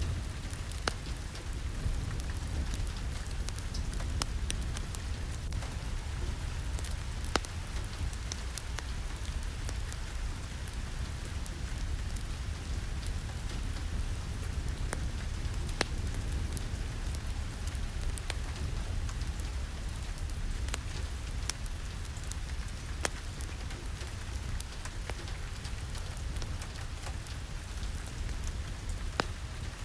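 Steady rain mixed with a wood fireplace: an even hiss over a low rumble, with sparse sharp crackles every second or so.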